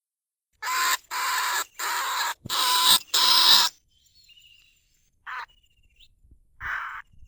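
Caged lesser bandicoot rat giving harsh, raspy calls: five in quick succession of about half a second each, then two shorter ones. These are the rat's calling sounds, recorded for use as a lure for bandicoot rats.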